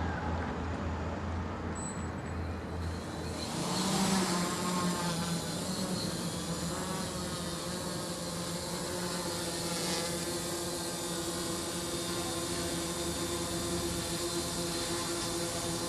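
Multirotor drone's motors and propellers spinning up with a surge about four seconds in, then holding a steady, evenly pitched hum.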